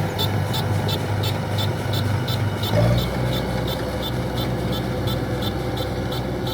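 Kubota DC-105X combine harvester's diesel engine running steadily under load, with an even high-pitched ticking about three times a second. About three seconds in, the engine note drops and deepens.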